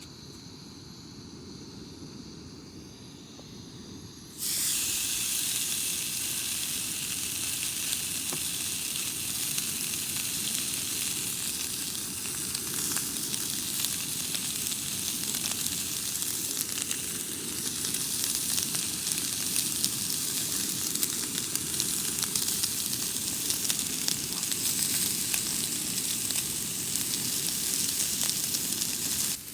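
Food sizzling and crackling in a hot pan over a camp stove. The sizzle jumps much louder about four seconds in, as when food goes into the hot fat, then holds steady.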